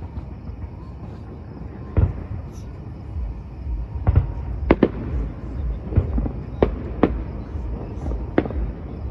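Aerial fireworks bursting: about eight sharp bangs, a single one about two seconds in, then a quick run of them from about four seconds on, some nearly on top of each other, over a steady low rumble.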